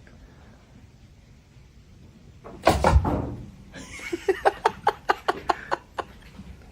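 A loud bang, then a quick run of about a dozen sharp knocks, several a second.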